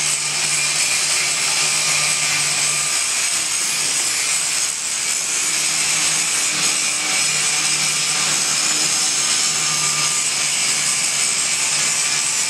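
A steady, loud hissing roar from a tool running in a metal shop, with a low hum that cuts in and out several times.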